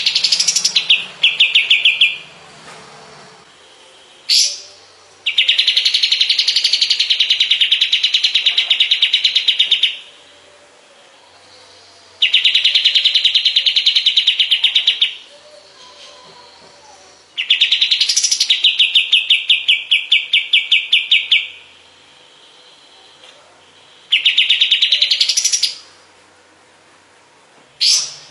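A kapas tembak songbird singing, used as a masteran song-tutor recording. It gives a series of fast trills of evenly repeated high notes, each burst lasting a few seconds with short pauses between, and a few single sharp notes in the gaps.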